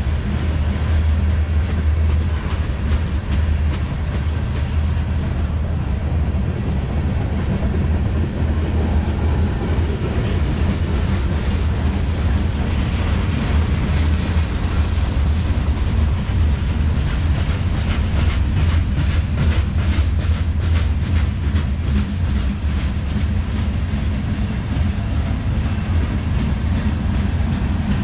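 Freight cars of a CSX manifest train rolling past close by: a steady low rumble of steel wheels on rail, with a run of rhythmic wheel clacks in the second half.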